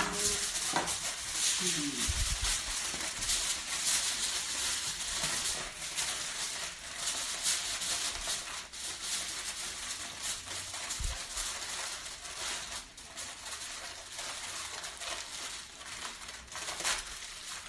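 Aluminium foil being folded and shaped by hand, giving continuous crinkling and rustling with many small crackles.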